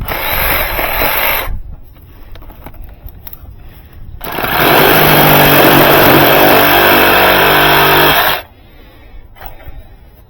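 A power tool running in two bursts, a short one at the start and a longer, louder one of about four seconds in the middle, with a steady motor hum under it.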